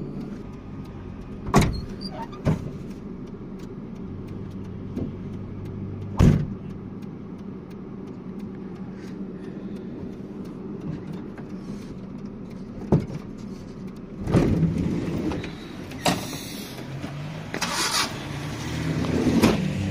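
Taxi engine idling with a steady low hum, broken by a series of sharp knocks and thumps at irregular intervals, several of them close together in the last few seconds.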